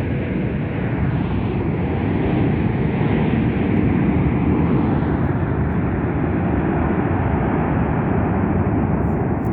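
Jet engines of an Airbus A321-200 airliner, a steady loud rush that swells a little a few seconds in and eases slightly toward the end.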